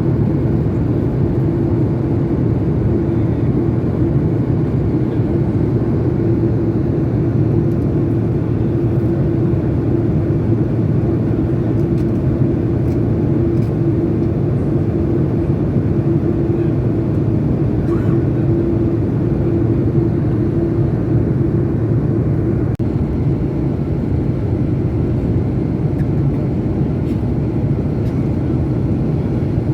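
Steady drone of an aircraft in flight, an even low roar of engines and rushing air with a held hum that fades out about three-quarters of the way through.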